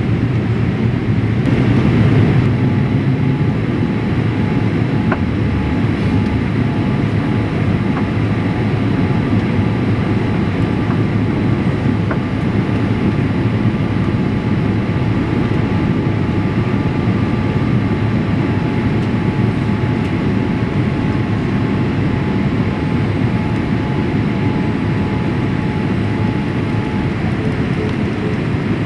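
Steady cabin noise inside a Boeing 787-8 airliner: a low, even rumble of the engines and airflow, with faint steady whining tones on top.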